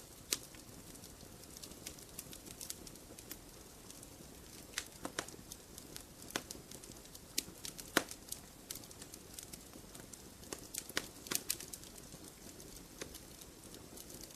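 Campfire burning, the wood crackling and popping at irregular intervals over a soft, steady rush of flame. The sharpest pops come just after the start, about eight seconds in, and around eleven seconds.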